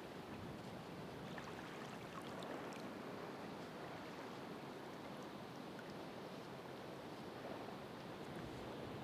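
Ocean waves washing ashore: a steady rushing wash of surf with faint scattered crackles.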